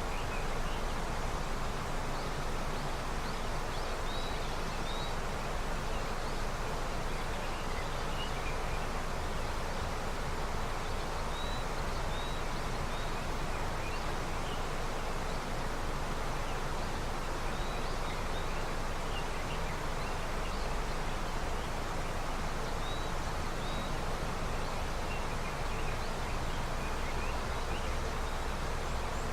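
Steady rush of a river running with early snowmelt, with brief high bird chirps every few seconds.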